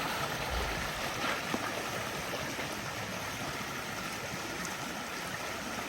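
Steady rushing and gurgling of storm-surge floodwater.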